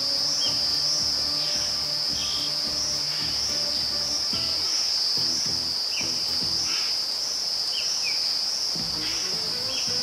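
A steady high-pitched insect chorus: a continuous shrill trill that pulses slightly, with short falling chirps every second or two and soft low background music underneath.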